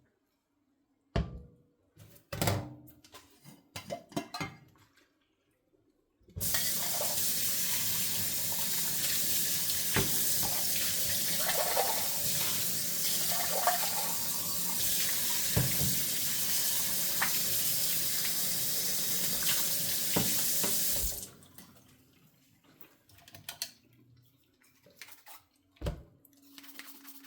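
Light clinks and knocks of dishes being handled at a sink, then a kitchen tap turned on and running steadily into the sink for about fifteen seconds before being shut off suddenly, with more dish knocks afterwards.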